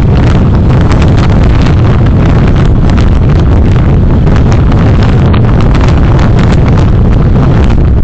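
Loud, steady rumble of a moving car's road and wind noise picked up by a dashcam microphone, with many small clicks and rattles throughout.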